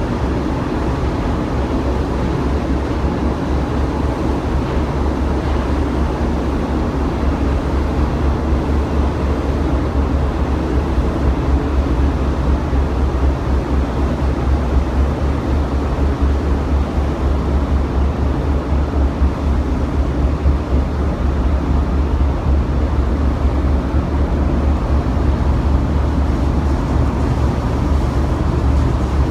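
Steady low drone of a ferry's engines and machinery, heard on board, running without change.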